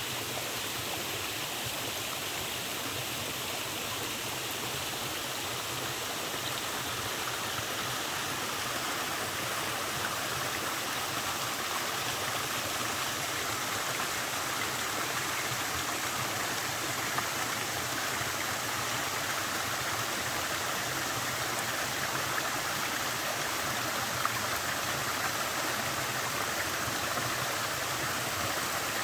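Small waterfall with a light flow, its water splashing in a steady, even rush.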